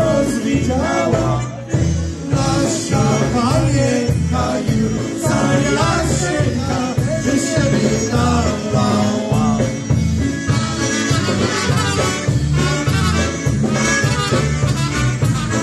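Live polka band music: an upbeat tune over a steady, bouncing bass beat.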